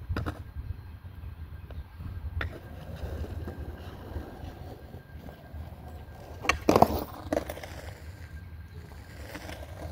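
Skateboard wheels rolling with a steady low rumble, broken by a few sharp clacks of the board, the loudest cluster about seven seconds in.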